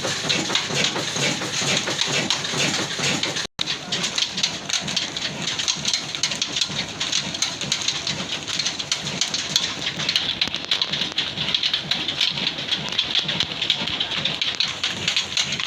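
Old diesel engine running steadily, a loud, fast, dense clatter. The sound drops out sharply for an instant about three and a half seconds in.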